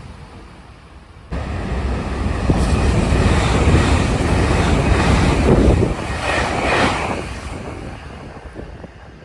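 Express train passing at high speed, about 126 km/h: a rush of wheel and wind noise that swells, peaks in the middle and fades away.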